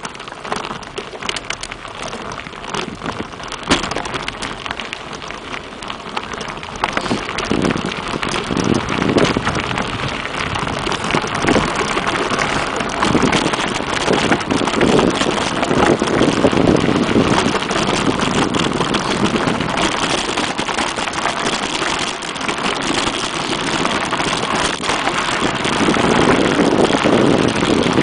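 Mountain bike riding along a rough trail: a steady noisy rush of tyres on dirt and gravel, with scattered rattles and clicks, getting louder after about six seconds.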